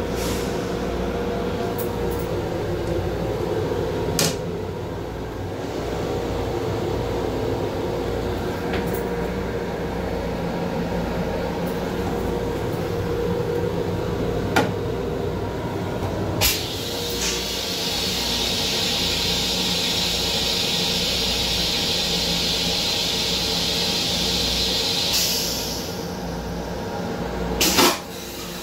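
Steady running rumble of a Long Island Rail Road M7 electric railcar, heard inside its small restroom, with a few sharp clicks from the plastic toilet lid being handled. A click about halfway through is followed by a steady hiss that lasts about eight seconds and stops.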